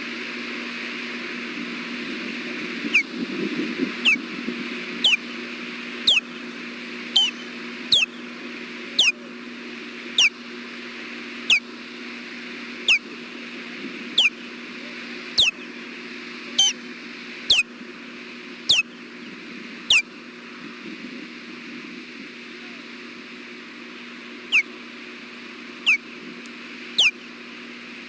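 Osprey giving alert calls: a long series of short, sharp whistled notes, each sliding down in pitch, about one a second. They pause for a few seconds, then three more come near the end.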